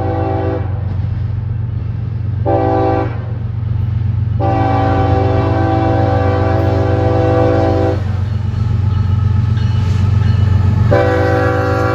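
CSX diesel locomotive's multi-chime air horn sounding in blasts for a grade crossing: one blast ends about half a second in, a short blast follows, then a long blast of about three and a half seconds, and another long blast begins near the end. A steady low locomotive rumble runs beneath.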